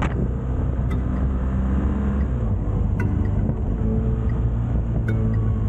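Motorcycle engine running steadily on the move, with a slight shift in engine note about two seconds in.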